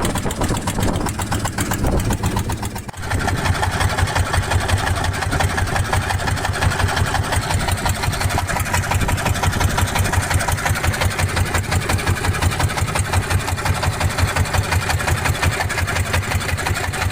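A small fishing boat's engine running steadily with a rapid even pulse. The level dips briefly about three seconds in, then the engine carries on.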